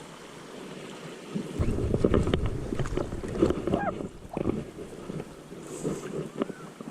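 Wind buffeting the microphone beside a river, a gusty low rumble that comes in about one and a half seconds in and eases off in the second half.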